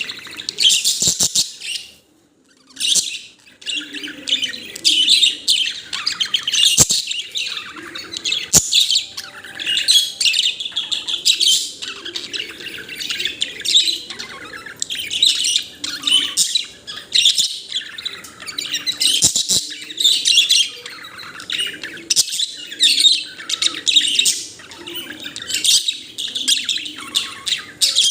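Budgerigar chirping and warbling almost without pause, rapid high chatter broken by a short gap about two seconds in, with a few sharp clicks mixed in.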